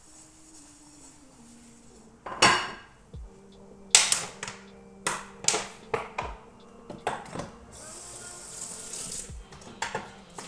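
Dishes and pans clinking and knocking as they are handled and put away, about eight sharp knocks, with a short hiss near the end.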